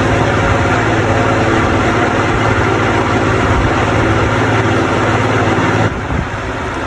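A big electric fan running, a loud steady whir with a low hum. The sound drops suddenly about six seconds in, leaving a lighter rush of air.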